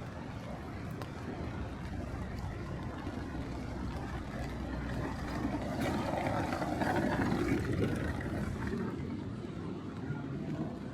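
Street traffic noise, with a vehicle passing that grows louder about halfway through and fades again near the end.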